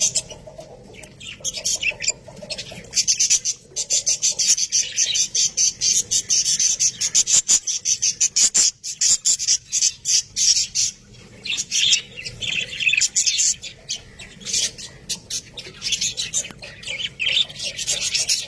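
Budgerigars chattering: a continuous run of rapid, high-pitched chirps, warbles and squawks.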